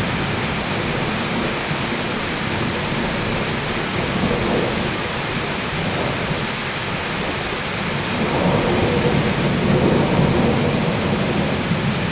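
Steady heavy rain with rolling thunder: a low rumble swells about two-thirds of the way in and slowly fades.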